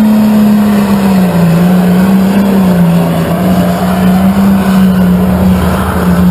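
A pulling tractor's engine running hard at high revs under load. Its steady pitch sags slightly and wavers as it lugs against the sled.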